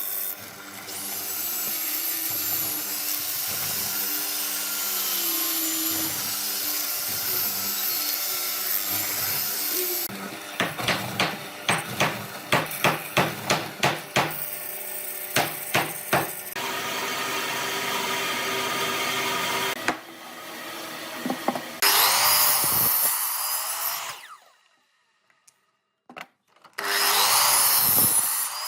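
Power tools working wood: a steady machine run, then a run of about a dozen sharp knocks, then more tool runs, each of the last two winding down in pitch as the motor is switched off, with a short pause between them.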